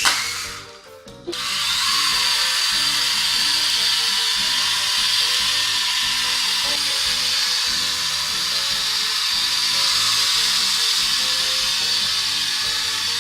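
Small electric motor and propeller of a toy flying-ball helicopter whirring steadily at a high pitch, breaking off briefly about half a second in and then starting again. Background music plays underneath.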